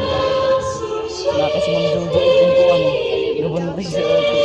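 A group of voices singing a slow song together, holding long notes.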